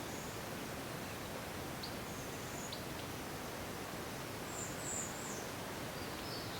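Natural ambience: a steady faint hiss with a few short, high bird chirps, the clearest about five seconds in.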